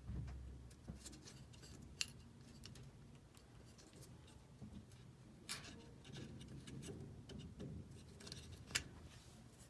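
Faint, scattered clicks and taps of small hard parts being handled and pushed into place, with two sharper clicks, one about two seconds in and one near the end.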